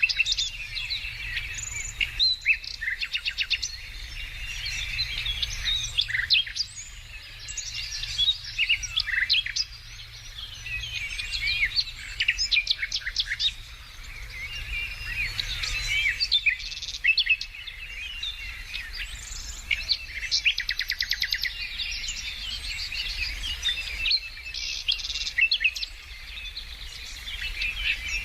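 Several songbirds singing and chirping at once, overlapping high whistles and chirps, with a fast rattling trill breaking in every several seconds.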